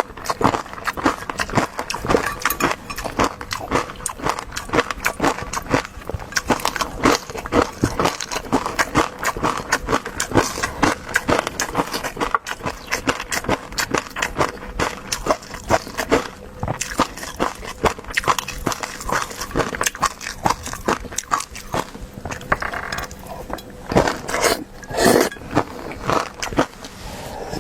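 Close-miked eating sounds: rapid wet clicks and smacks of a mouth chewing food, with a few longer, louder sounds near the end.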